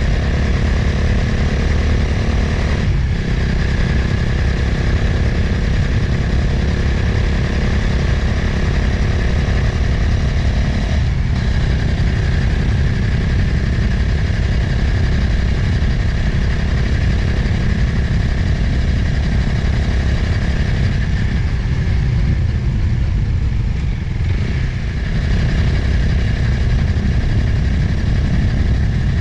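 Motorcycle engine running steadily while riding, with wind rushing over the helmet or action-camera microphone. The engine note dips briefly a few times.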